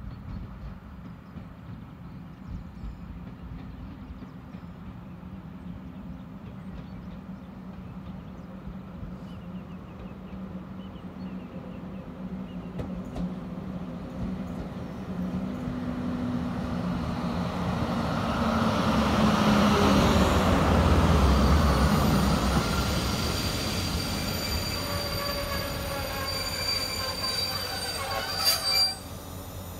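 Pesa Gama SU160 diesel locomotive drawing a passenger train into the platform. Its engine grows louder as it approaches and is loudest as it passes about twenty seconds in. The coaches follow, rolling slowly with a high-pitched metallic squeal from their wheels as the train slows to stop; the squeal cuts off sharply near the end.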